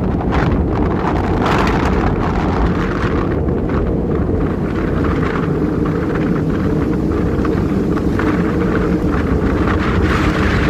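Storm wind blowing hard across the microphone: a loud, steady rumble.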